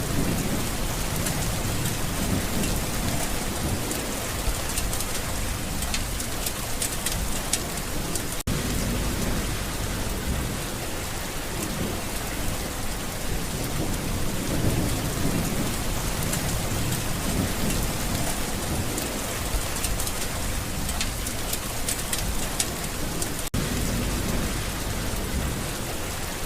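Steady heavy rain with a dense patter of drops, and low rumbles of thunder swelling and fading several times.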